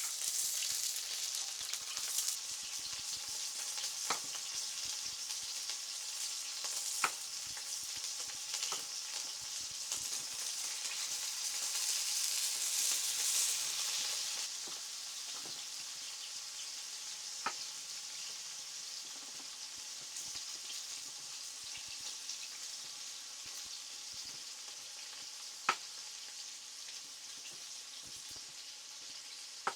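Steady sizzling hiss of food frying in a pan, swelling for a few seconds around the middle, with a handful of sharp single pops.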